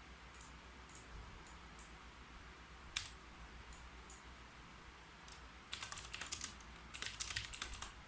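Computer keyboard typing: a few scattered single keystrokes, one sharper than the rest about three seconds in. Then, near the end, two quick bursts of rapid typing.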